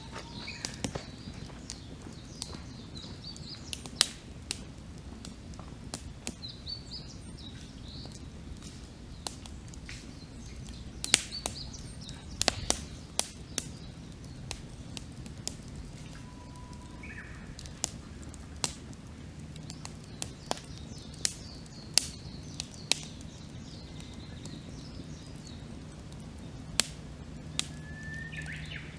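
Wood campfire crackling, with sharp pops at irregular intervals. Birds chirp in short calls in the background, one rising chirp near the end.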